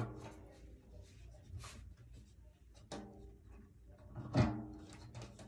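Knocks and clunks of drum parts being handled while a drum kit is assembled. A few separate knocks, the loudest near the end, some followed by the drum ringing briefly.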